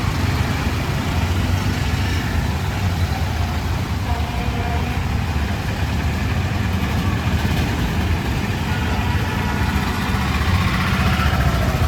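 A motor vehicle's engine idling, a steady low rumble amid street traffic noise.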